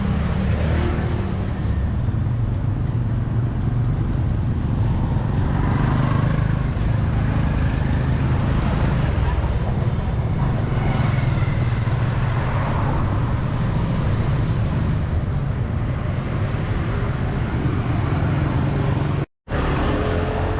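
City street traffic passing with a steady low rumble and faint voices in the background. The sound drops out completely for a moment near the end.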